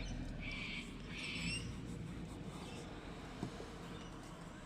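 Faint bird chirps, two short bursts about half a second and a second and a half in, over a low steady background rumble.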